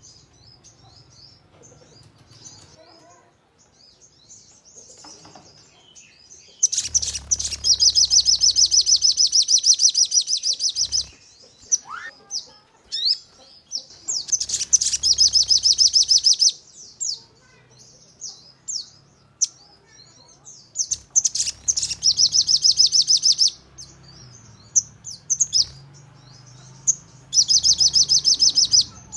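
Sogon bird singing: soft high twittering broken by four loud, rapid machine-gun trills of fast repeated notes, each lasting two to four seconds. This is the 'nembak' (shooting) style of song that bird keepers use to provoke other sogons.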